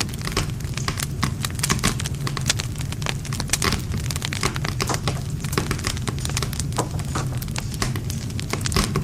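Wood fire burning, with dense irregular crackling and popping of the burning wood over a steady low rumble of flames.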